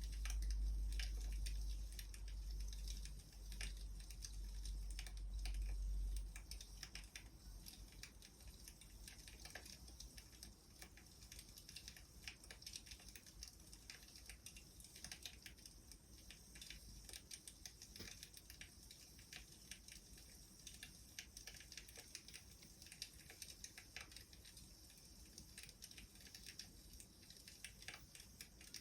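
Wood fire crackling: irregular sharp pops and snaps of burning logs over a soft hiss. A low rumble underlies the first six seconds, then stops.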